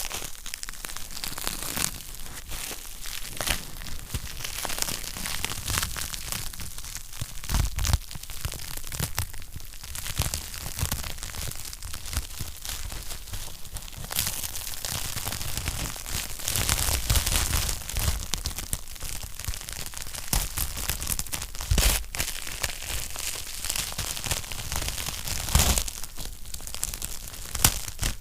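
Wood fire crackling in a fireplace: a dense, continuous run of small snaps and pops, with a few louder pops scattered through.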